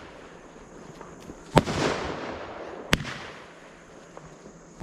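Six-shot fireworks cake firing. About one and a half seconds in, a shot goes off with a bang and a second-long hissing tail. A single sharp report follows about a second and a half later, and the next shot fires at the very end.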